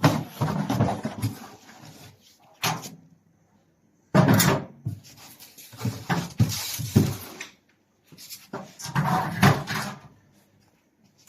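Handling noise from a camping tent stove being moved and unpacked: rustling, scraping and knocks in bursts of a second or two, with short pauses in between.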